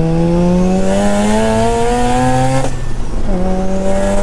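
Mazda RX-7 FD3S's single-turbo 1.3-litre rotary engine pulling hard under acceleration, its note climbing steadily with a hissing turbo rush building over it. About two and a half seconds in the note drops away for a gear change, then it pulls again at lower revs.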